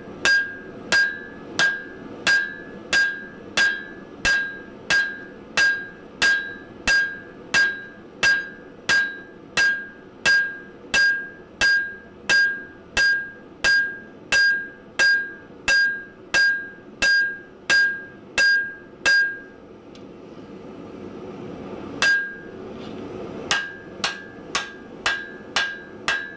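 Hand hammer striking hot steel spring stock on an anvil, forging it flat to width: steady blows about three every two seconds, each with a high, clear ring. The blows stop for a couple of seconds, one lone blow follows, then a quicker run of blows near the end.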